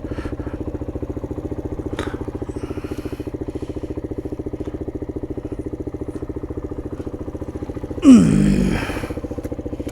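125cc MGB ATX adventure motorcycle engine idling with a steady pulsing note. About eight seconds in it gives a sudden loud burst whose pitch falls away.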